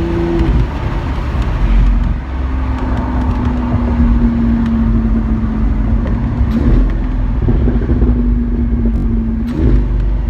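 Lamborghini Aventador SV's V12 engine heard from inside the cabin, its pitch rising briefly at the start and then holding steady as the car cruises, over a low road rumble.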